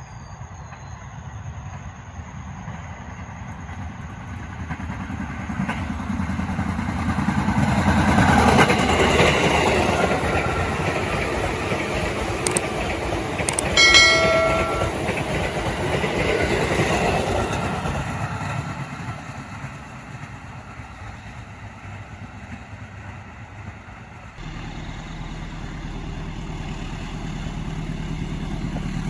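A train passing trackside, its rail and wheel noise building up, holding, then fading away, with a short horn blast about halfway through. Near the end the sound switches suddenly to a steady low rumble.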